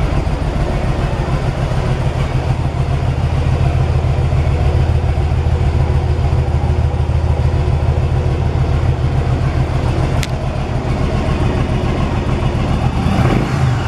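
2009 Yamaha V Star 1100's air-cooled 1063cc V-twin idling steadily, with a single sharp click about ten seconds in and the engine starting to rev near the end.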